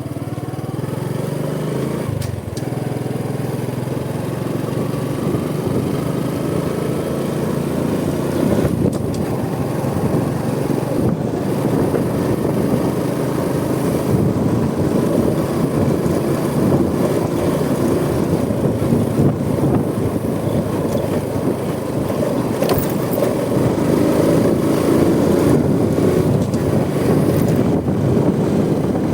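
Honda Supra X 125 motorcycle's single-cylinder four-stroke engine running on the move, with rushing road and wind noise, growing gradually louder.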